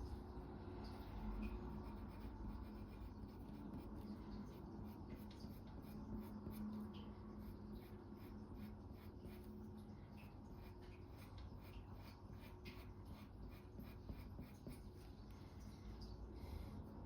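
Coloured pencil scratching on paper in many short, quick strokes, with a faint steady hum underneath.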